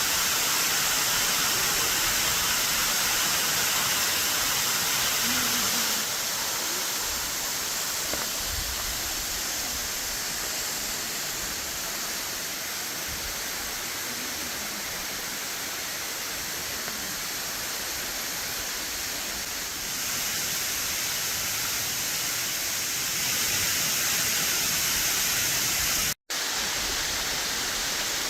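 Waterfall cascading at high water during the spring run-off, a steady rush of falling and splashing water. Its loudness shifts a few times, and there is a brief dropout near the end.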